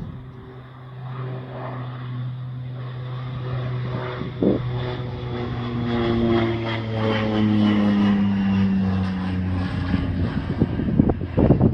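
Propeller airplane flying low overhead: its engine drone grows louder, then drops in pitch as it passes. Wind buffets the microphone near the end.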